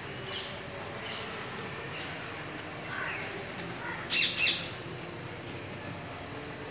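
A bird calling: two loud, short calls in quick succession about four seconds in, with fainter short chirps scattered before them, over steady outdoor background noise.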